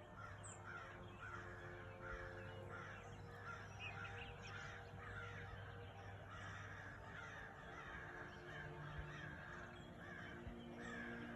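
Dawn chorus of many birds calling over one another, the calls coming thick and repeated all through, over a faint steady low hum.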